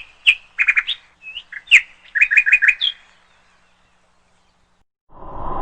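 A small bird chirping: a quick series of short, sharp chirps, some in fast runs of four, that stops about three seconds in. Near the end a steady rushing noise with a faint hum starts up.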